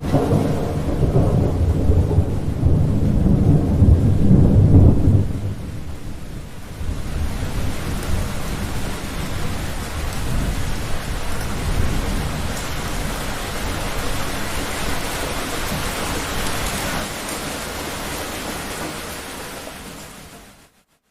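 Thunderstorm: a loud, deep roll of thunder starts suddenly and rumbles for about five seconds, then gives way to steady heavy rain. The rain fades out about a second before the end.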